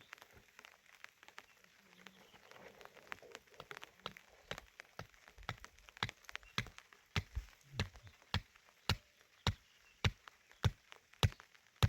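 Repeated chopping blows, about one every 0.6 s, that grow louder from about halfway in, after lighter scattered knocks.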